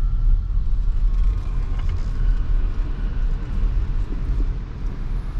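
Nissan Ariya electric SUV on the move, heard from inside the cabin: a steady low rumble of road and tyre noise with a faint high whine.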